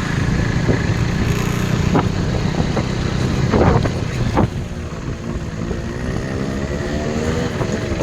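KTM RC 390's single-cylinder engine running on the move under a heavy low rumble of wind. About halfway in the rumble eases and the engine note climbs steadily as the bike accelerates.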